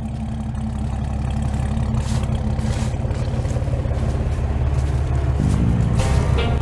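Chevrolet 235 inline-six in a 1949 Chevy 3100 pickup running through a dual exhaust, its sound growing steadily louder and changing pitch about five seconds in. Guitar music comes in near the end.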